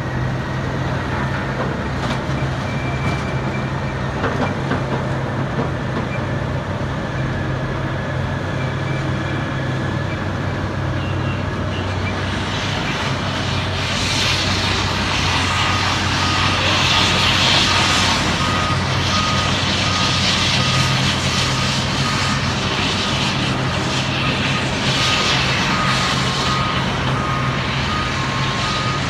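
Construction truck engine running with a steady low hum. About halfway through, the machinery noise grows louder and a reversing alarm starts beeping at an even, steady rate.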